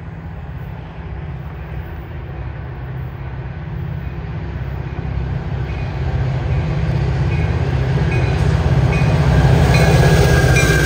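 Metra commuter train's diesel locomotive approaching and passing, its deep engine drone growing steadily louder as it nears. From about the middle on, a regular clicking of wheels over the rail joints joins in, and a faint high whine rises near the end as the locomotive and bilevel coaches go by.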